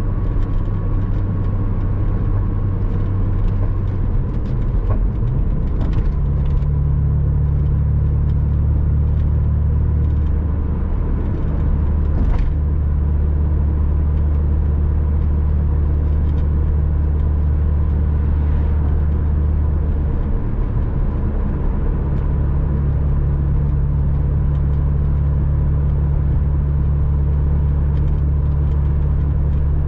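Porsche Boxster 986's flat-six engine pulling steadily while driving, over tyre and road noise. The engine note changes pitch about five seconds in and again around twenty-one seconds.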